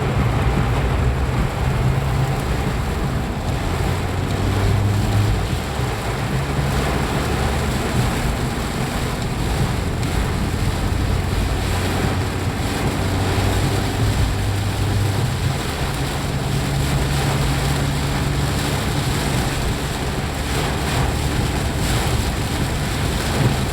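Steady rush of heavy rain, with the low hum of a vehicle engine that shifts in pitch every few seconds.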